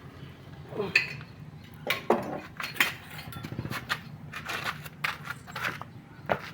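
Irregular metallic clinks and clanks, metal objects knocking together several times, with a few brief voice sounds among them.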